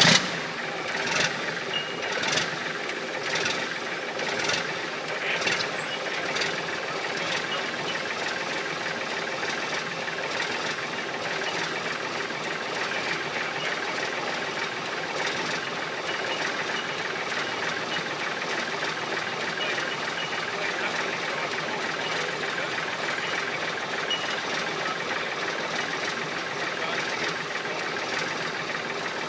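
Diesel truck engine running steadily. Over the first several seconds a sharp knock comes about once a second, fading away.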